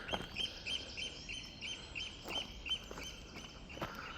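Eurasian oystercatcher calling: a steady run of short, high piping notes, about three a second, with a few faint knocks.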